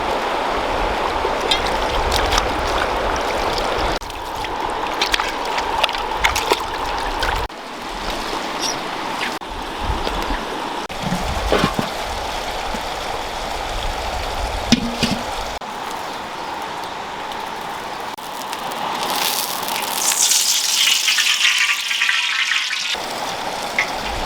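Water trickling and splashing, heard in several short edited segments, with a few scattered knocks. A brighter, hissier stretch of running or pouring water comes near the end.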